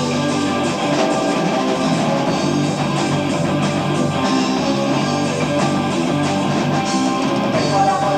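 Amateur live recording of a progressive rock band playing an instrumental passage, with electric guitar and a drum kit at a steady, full level.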